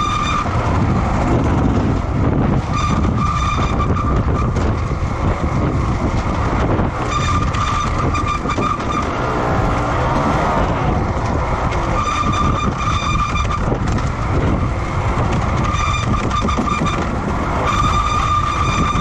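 Racing motorcycle engines running at high revs, a high steady engine note coming and going several times over a continuous rumble.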